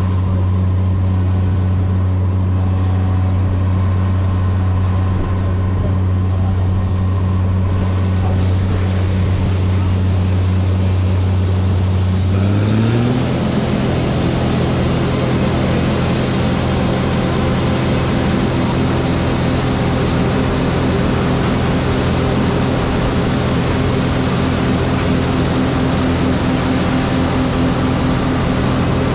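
John Deere 9560 walker combine's diesel engine and machinery running with a steady low hum. About twelve seconds in the pitch rises quickly, then holds at the higher pitch with a louder, rougher rushing noise on top.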